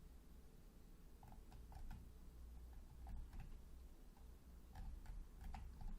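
Faint computer mouse clicks and scroll-wheel ticks in a few small clusters over a low steady room hum.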